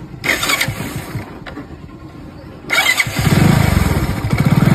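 Hero Splendor motorcycle's electric self-starter cranks the engine, which catches about three seconds in and runs with a fast, even pulse. The starter has a new 6001 bearing in place of the worn one that was making noise.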